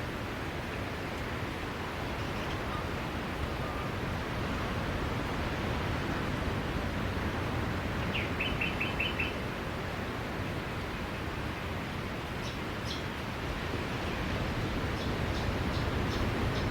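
Steady wash of sea waves on a beach, with small birds chirping over it: a quick run of about six chirps about halfway through, and a few short high chirps near the end.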